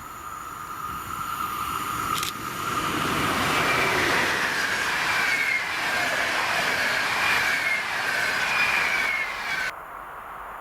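A train passing at speed on the main line, its running noise building up and then holding, with a high wavering whine over it. The sound cuts off suddenly near the end.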